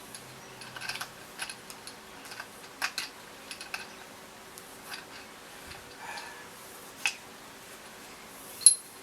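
Scattered metallic clicks and clinks of tools and motorcycle fork parts being handled during fork reassembly, with one sharp ringing metal clink near the end, over a faint steady hum.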